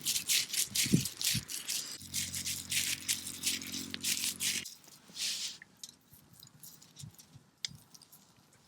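Rapid rattling and clicking, with a low steady hum for a couple of seconds in the middle; the rattling stops about five seconds in, leaving only a few faint clicks.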